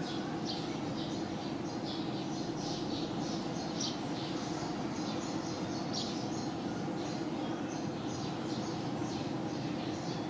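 Birds chirping in short, high calls, two or three a second, over a steady background noise.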